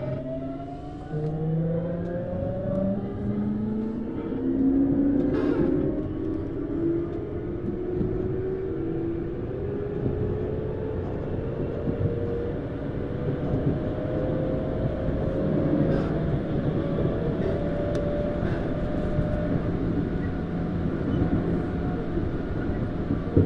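Tokyu Series 9000 train's Hitachi GTO-VVVF inverter and traction motors under acceleration: several whining tones rise in pitch in steps for about the first dozen seconds, then level off and fade. Underneath is the steady rumble of the wheels on the rails.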